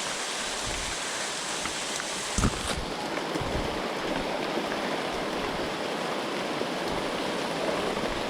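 Heavy rain falling, a steady hiss, with a brief knock about two and a half seconds in.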